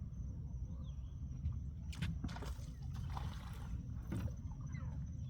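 Water sloshing and lapping against a small boat's hull, with a few light knocks about two seconds in and again about four seconds in.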